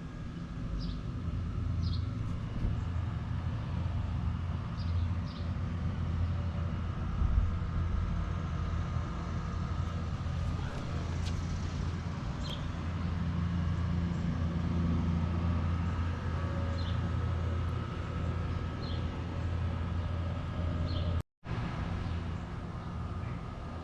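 Car engine idling steadily, a low even hum. Short high chirps come and go over it.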